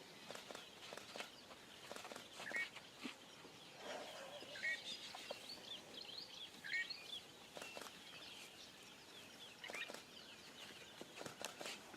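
A flock of birds chirping and twittering, with a short call repeating about every two seconds and scattered light clicks.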